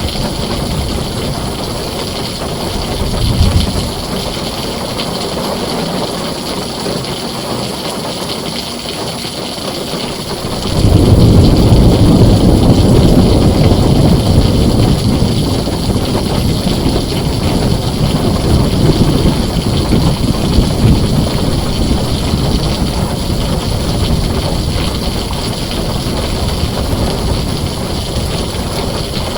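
Heavy rain on a tin roof, a steady hiss, with a brief low swell of thunder a few seconds in. About ten seconds in, a loud, deep thunder rumble sets in suddenly and rolls on, slowly fading.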